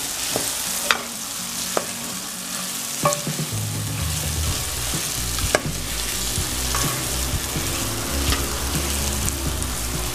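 Drumstick pods and masala paste sizzling as they fry in oil, stirred with a metal spoon that knocks sharply against the steel pan every second or two. The masala is being fried down until the oil separates.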